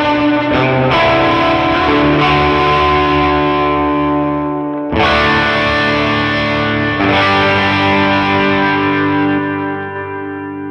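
Distorted electric guitar through a Line 6 modeller with ambient wet effects, playing chords that are struck and left to ring. A fresh chord is struck about five seconds in and another a couple of seconds later, and the sound fades out near the end.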